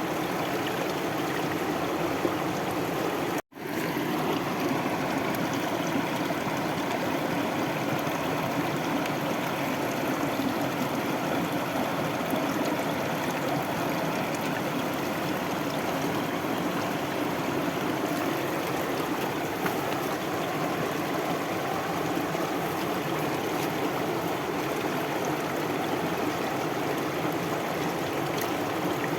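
Flowing stream water running steadily. The sound drops out for a split second about three and a half seconds in.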